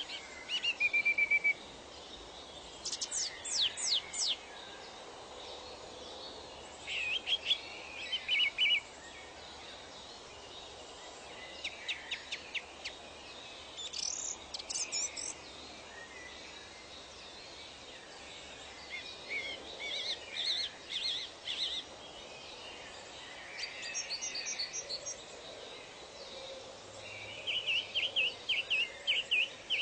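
Songbirds singing in short bursts of rapid chirps and trills every few seconds, over a steady soft hiss of forest ambience.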